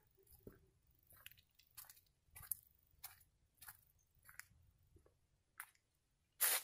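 Footsteps crunching on loose ground at an even walking pace, about three steps every two seconds, with a slightly louder step near the end.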